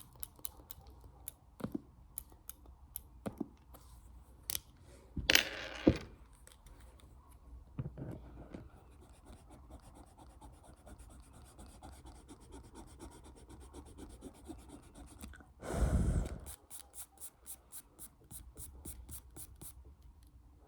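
ASMR tapping and scratching by hand: scattered sharp taps, soft scratching in the middle, and two louder brushing bursts about five and sixteen seconds in. Near the end comes a quick even run of taps, about five a second.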